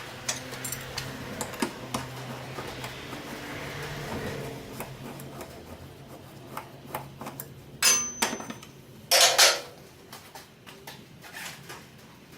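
Metal tools and parts clinking and knocking during work on a car, over a steady low hum. Two louder, noisy bursts come about eight and nine seconds in.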